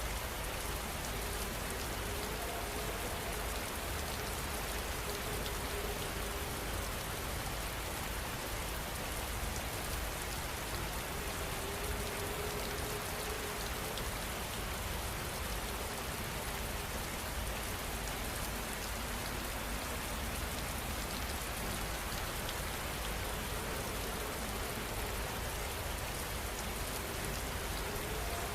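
Heavy rain falling steadily, an even hiss of drops with no let-up and no thunder.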